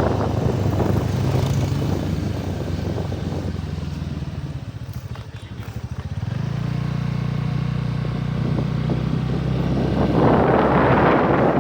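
A vehicle's engine running steadily under way. About six seconds in the engine note drops and settles at a lower steady pitch, and wind buffets the microphone near the end.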